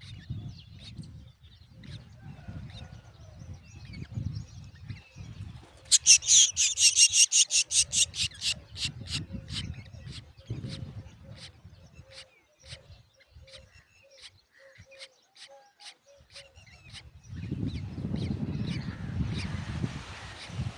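Drongo chicks begging: a rapid series of short, high calls, about five or six a second. The calls start loud about six seconds in, then thin out and fade over the next ten seconds. A low rumbling noise runs underneath and grows louder near the end.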